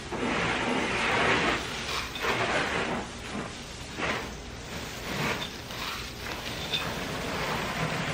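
Water spray hitting a car's bodywork as it is hosed down, a hissing spatter that swells and fades in surges as the spray sweeps across.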